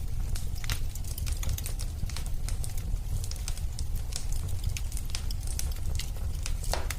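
Wood fire crackling and popping in a fireplace: irregular sharp snaps over a steady low rumble of flame.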